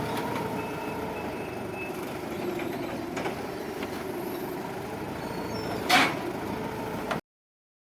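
Counterbalance forklift engine running steadily, with a few metallic knocks and clanks; the loudest is about six seconds in. The sound cuts off suddenly near the end.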